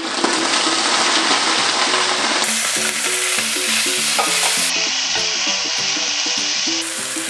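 Shredded potato sizzling loudly as it is tipped into hot oil and stir-fried with a spatula. The sizzle swells just after the start, as the potato hits the oil.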